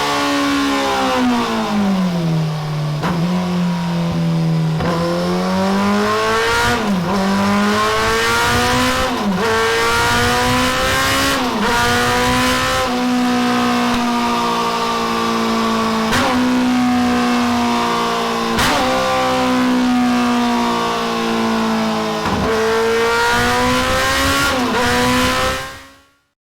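Kawasaki ZZR1400 inline-four engine running hard through a pair of Delkevic SS70 oval stainless steel mufflers on a dyno. The revs sag over the first couple of seconds, then climb and hold high, with a brief sharp dip every two to three seconds. The sound cuts off suddenly near the end.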